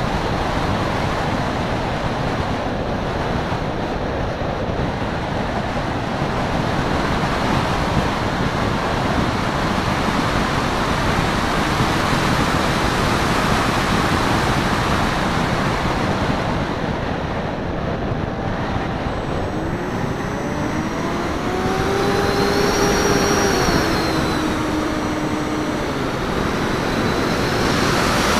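Steady rush of airflow over a camera on the wingtip of a flying RC foam plane. About twenty seconds in, an electric motor and propeller whine rises in pitch and holds for several seconds before fading.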